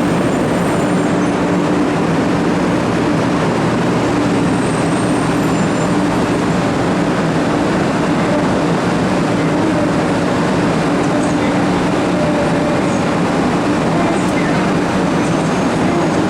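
Shinkansen 500 series train at the platform: a steady rushing noise with a low, even hum, no change in pitch or level.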